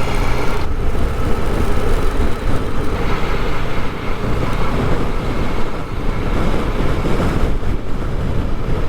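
Honda Deauville motorcycle under way: steady, heavy wind rush over the camera microphone with the engine and road noise running underneath.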